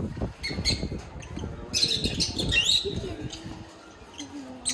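Small birds chirping and squawking, with a quick flurry of high, gliding calls about two seconds in, over a low background murmur.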